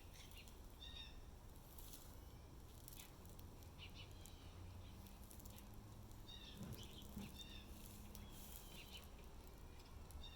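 Faint birds chirping in short calls repeated every second or two over a low steady hum.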